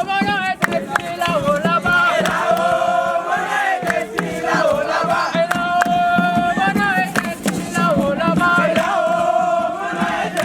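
A group of young voices chanting and singing a campfire song together, with sharp percussive hits mixed in.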